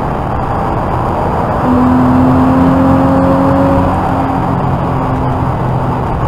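Porsche Boxster 986's 2.5-litre flat-six heard from inside the cabin at high revs on track. It pulls louder from about two seconds in with a slowly rising note, then eases off, over steady road and wind noise.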